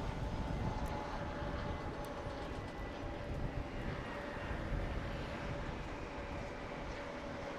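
Car driving along a road: steady rumble of tyres and engine, with a faint whine that slowly falls in pitch.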